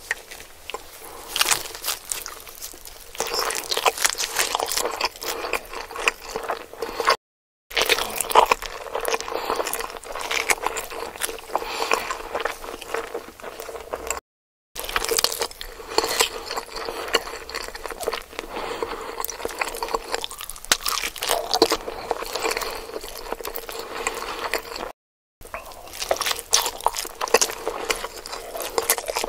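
Close-miked eating of large salmon nigiri: biting and chewing the soft fish and rice, with many quick wet mouth clicks. It is broken by three brief silences, and a faint steady hum runs underneath.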